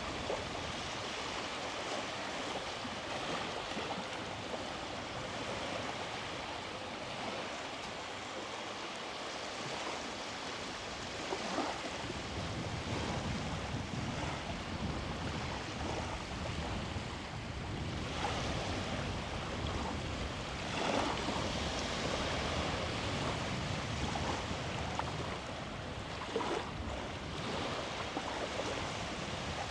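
Small sea waves washing onto the beach in a continuous hiss, growing fuller about twelve seconds in, with a few brief swells as waves break.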